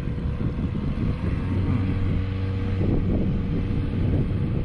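Steady low motor hum with wind noise on the microphone, and a brief burst of rustling or handling noise about three seconds in.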